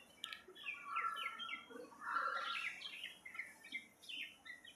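Birds chirping faintly: a run of short, quick chirps and twitters, several falling in pitch.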